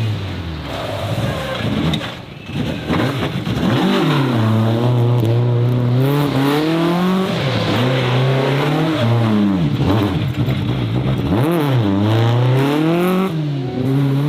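Racing car engine at high revs, its pitch climbing and then dropping sharply several times (about 7, 10 and 11 seconds in) before rising again.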